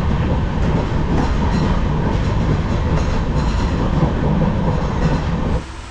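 Passenger train coach running at about 106 km/h, heard from the vestibule by the doors: a steady, loud rumble of wheels on the rails with faint clicks, cutting off sharply near the end.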